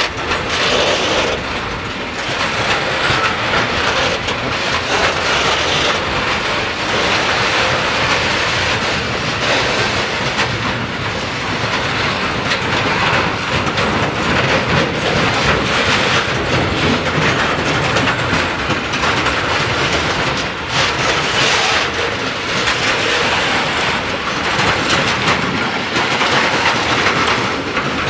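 Long freight train of open freight wagons rolling past at close range, a steady loud run of wheel and wagon noise with a continuous clatter of wheels over the rail joints.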